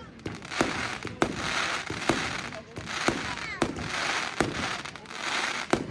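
Fireworks going off: a string of sharp bangs, roughly one a second. Several are followed by a fizzing crackle lasting about half a second.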